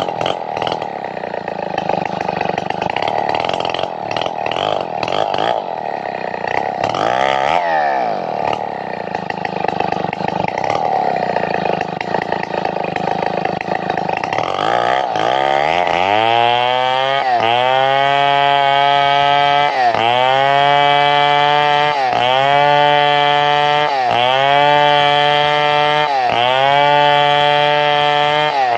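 Two-stroke chainsaw running loud and hard, as when cutting wood. Its pitch drops and climbs back once near the middle. In the second half the engine note turns clear and rises, then sags and recovers in a regular rhythm about every second and a half.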